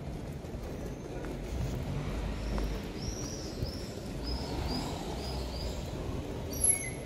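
City street ambience with a low traffic rumble. From about three seconds in, a small bird chirps a run of about six short, high notes, and a brief, sharp high chirp is heard near the end.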